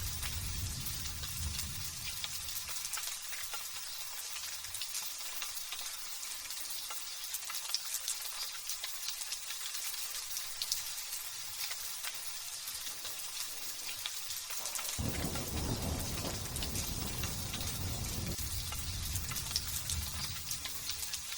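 Steady drizzle hissing on surfaces, with thunder rumbling low: one roll fades out in the first couple of seconds, and another starts suddenly about fifteen seconds in and dies away a few seconds later.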